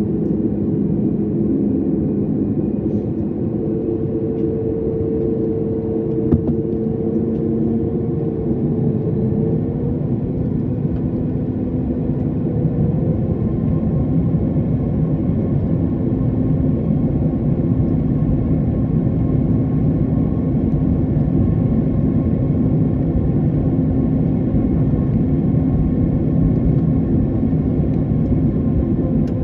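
Jet airliner engines and airflow heard inside the passenger cabin: a loud, steady rumble with an engine hum whose pitch shifts about eight to ten seconds in.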